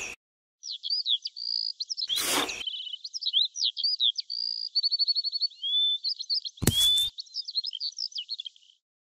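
A songbird singing a long, varied run of quick chirps, whistles and trills. Short scrapes of a miniature trowel digging into sand break in at the start, about two seconds in, and again about seven seconds in.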